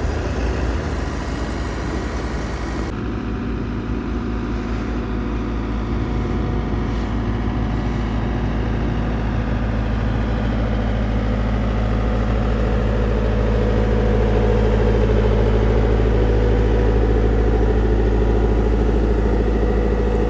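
Engine of heavy road-works machinery running steadily, getting gradually louder over the second half.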